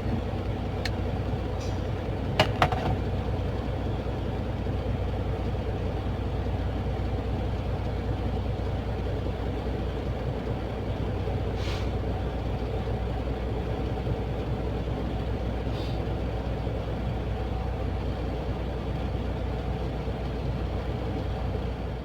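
Semi-truck diesel engine running steadily, heard from inside the cab, with a couple of short clicks about two and a half seconds in.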